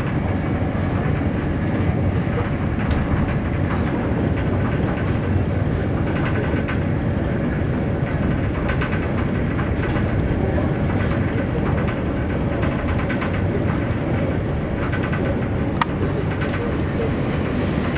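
Steady rumble of a passenger train running at speed, heard from inside the carriage, with faint clicks now and then.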